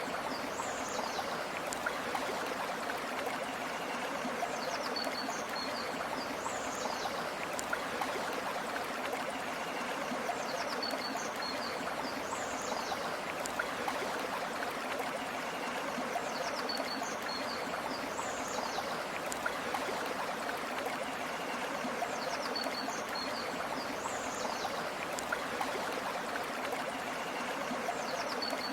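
Steady rush of a flowing stream. A brief high call recurs about every six seconds, identical each time.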